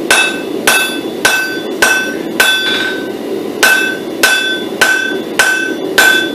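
Blacksmith's hand hammer striking a hot pattern-welded steel billet on an anvil, about one blow every 0.6 seconds with a short pause about halfway through; each blow leaves a brief high ring. A steady low rumble runs underneath.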